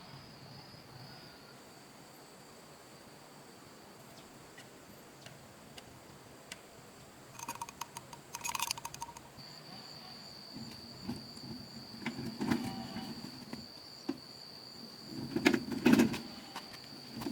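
Steady high-pitched insect trilling, with bouts of clattering and knocking from about seven seconds in, loudest near the end.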